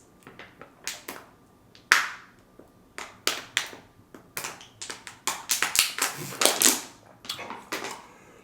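Close-miked eating sounds: a run of irregular mouth clicks and smacks, sparse at first and thickest past the middle.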